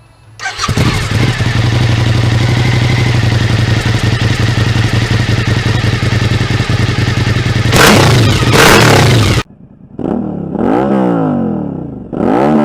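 2014 Suzuki V-Strom 1000's V-twin engine, breathing through a newly fitted Black Widow slip-on end can, starts up and idles steadily, then takes two quick throttle blips. It cuts off suddenly, and then comes two revs that climb and fall back.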